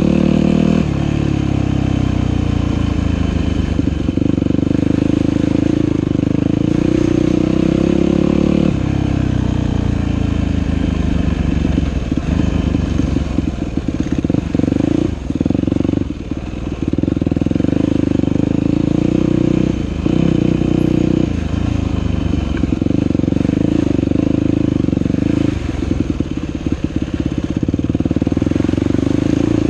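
Dirt bike engine running under changing throttle: it pulls hard, then eases off several times, with clattering knocks in places.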